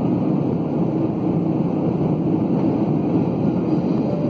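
Steady low roar inside an airliner's cabin on the approach to land: engine and airflow noise with no break or change.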